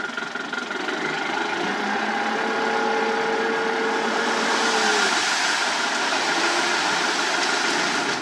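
Heavy diesel road-construction machinery running, with a steady whine from about two seconds in that dips slightly and stops about five seconds in.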